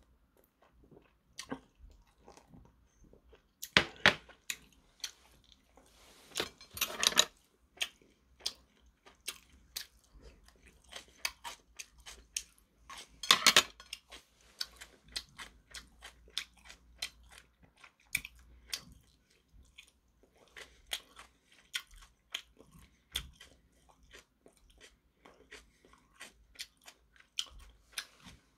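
A man eating close to the microphone: steady chewing with many small wet mouth clicks and crunches. A few louder sharp sounds stand out about 4, 7 and 13 seconds in.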